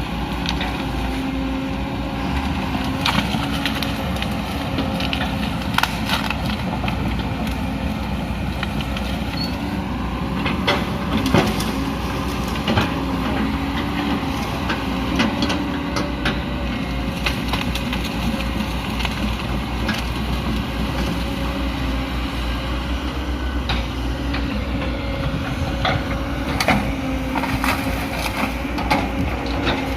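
Excavator's diesel engine running steadily under load, with repeated sharp cracks and snaps of wood and branches being crushed.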